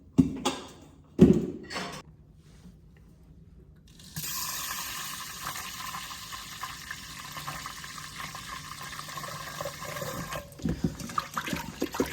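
Kitchen tap running for about six seconds into the Instant Pot's inner pot, filling it with water to rinse the rice in it. A few sharp knocks of the pot being handled come first, and small clatters follow near the end as the tap goes off.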